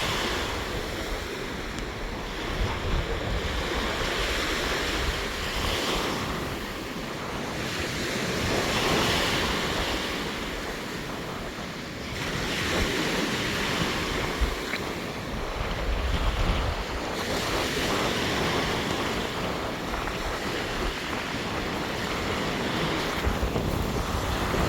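Rough sea surf breaking on the shore in a squally wind, the wash swelling and easing every few seconds. Wind gusts buffet the microphone with a low rumble.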